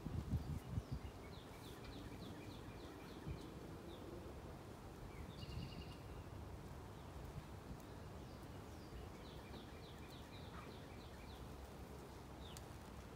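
A songbird sings two phrases of quick repeated notes, several seconds apart, over a faint steady outdoor background with the hum of honeybees from a swarm. A few low knocks and rustles from handling come in the first second.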